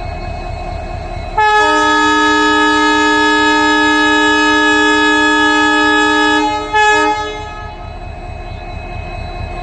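EMD WDP4 diesel locomotive humming, its two-stroke V16 engine a low rhythmic rumble under everything. About a second and a half in, its air horn sounds one long chord-like blast of about five seconds, then a short second blast.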